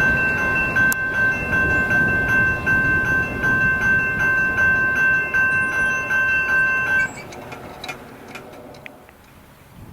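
Freight train cars rolling past a grade crossing with a low rumble, while the crossing signal's bell rings steadily in a fast, even rhythm. Both stop abruptly about seven seconds in, leaving faint wind.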